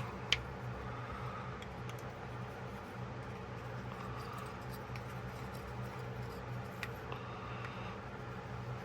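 Soft rubbing of a cloth polishing a pocketknife with Flitz metal polish, faint against a steady low hum, with a sharp click just after the start and another near the end.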